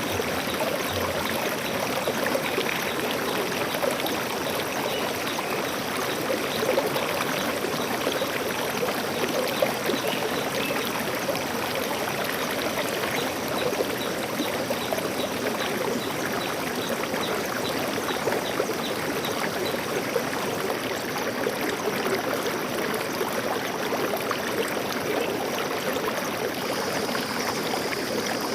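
Stream water flowing steadily, an even rushing and trickling. A faint steady high tone joins near the end.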